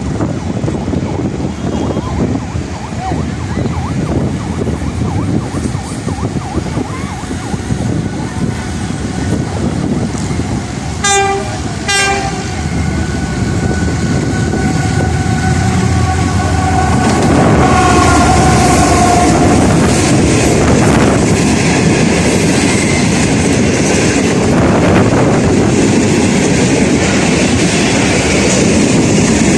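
Diesel-electric passenger train running through a station. Its horn sounds two short blasts about eleven seconds in, followed by drawn-out high tones that fall slightly in pitch. The heavy rumble and clickety-clack of the wheels grow louder as the train passes.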